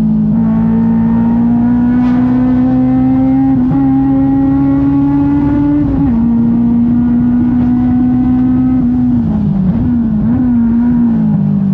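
Engine held at high revs, its pitch creeping slowly upward, with brief drops in pitch about 4 and 6 seconds in and a short wobble near the end.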